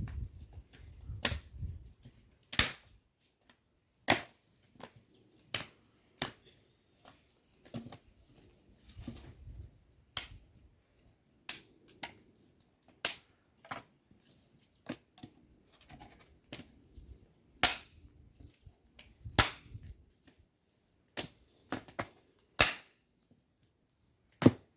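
Sharp knocks of pieces of firewood striking one another as they are stacked, one every second or two, with low handling rumble between some of them.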